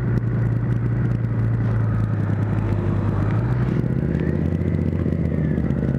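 2010 Honda CBR1000RR's inline-four engine running at steady low revs while riding, its note shifting slightly about three and a half seconds in.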